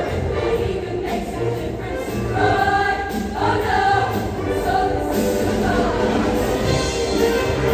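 A show choir singing with a recorded backing track and a steady beat.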